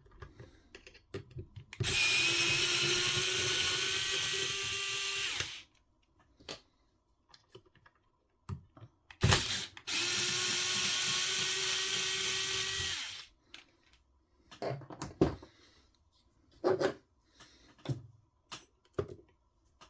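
Small power screwdriver running twice, about four seconds and three and a half seconds, backing out two small screws from an RC car's steering assembly: a steady motor whine, the first starting about two seconds in and the second about ten seconds in. Light clicks and knocks of small parts being handled come in between and after.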